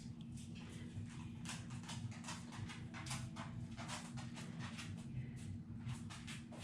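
Faint, irregular light taps and rustles of paper and small tools being handled on a craft table, about three or four a second, over a steady low hum.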